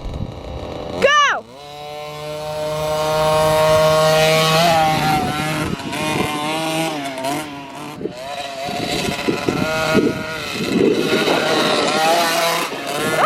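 Dirt bike engine revving: a sharp throttle blip about a second in, then a long rise in pitch as the bike pulls away, and rougher, uneven running in the second half.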